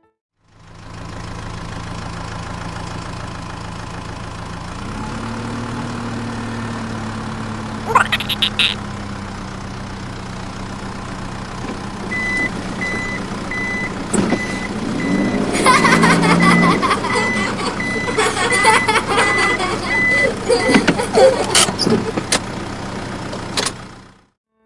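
A truck engine runs steadily, rising a little in pitch about five seconds in. A reversing alarm then beeps about twice a second for several seconds, while clattering and sharp knocks grow louder over it.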